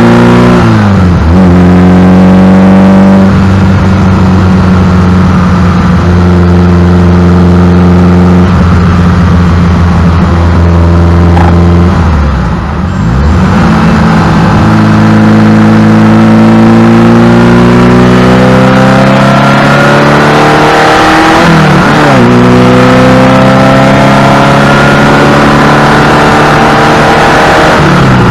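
The V8 of a 1985 Ferrari 308 GTSi Quattrovalvole, heard close up from the engine cover while driving, pulling through the gears. The pitch climbs steadily and drops briefly at gear changes about a second in, near the middle, and about three quarters of the way through.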